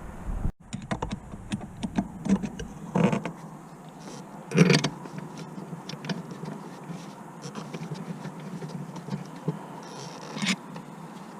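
Scattered clicks and knocks of tools and metal parts being handled, with louder knocks about three and four and a half seconds in and another near the end.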